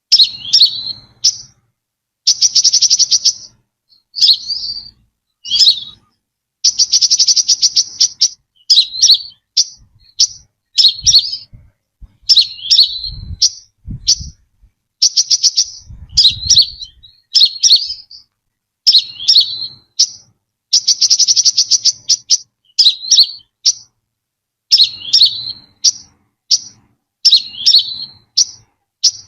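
Brown-throated sunbird calling: a steady series of short, sharp slurred chirps, broken every few seconds by a buzzy, rapidly pulsed trill about a second long.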